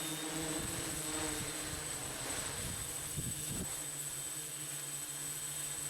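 Six-rotor hexcopter (Tarot T960 frame, T-Motor motors, 14-inch props) hovering with a steady propeller hum, while gusty wind buffets the microphone.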